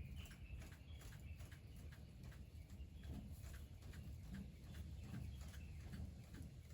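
Faint crackling of a wood fire: irregular small snaps and pops, a few a second, over a low rumble.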